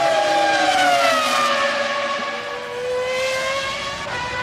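Formula One cars' 3.0-litre V10 engines at high revs. The pitch drops over the first second and a half as they pass and lift off, then climbs slowly as they accelerate away, with another car's engine coming in near the end.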